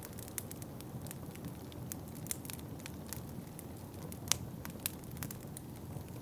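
Wood fire in a fireplace crackling, with many irregular sharp pops, the loudest about four seconds in, over a steady low rumble.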